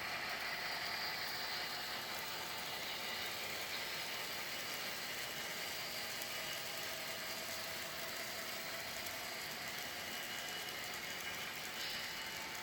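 A train rolling past with a steady mechanical rattle of wheels on rail, with thin high tones above it, easing off slightly toward the end.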